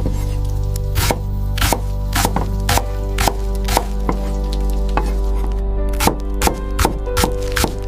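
Knife chopping on a cutting board in a steady rhythm of about two strokes a second, quickening slightly about six seconds in.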